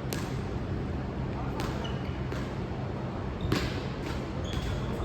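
Four irregular sharp knocks, some with a brief high ringing ping, over a steady low hum.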